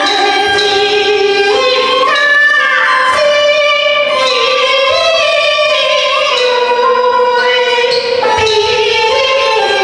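Teochew opera singing over its traditional instrumental accompaniment, a melody that holds and steps between notes without a break.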